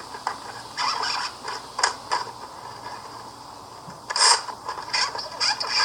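The internal record and gear mechanism of a smashed See 'n Say talking toy rattling and clicking in irregular bursts, loudest about four seconds in: the mechanism is broken.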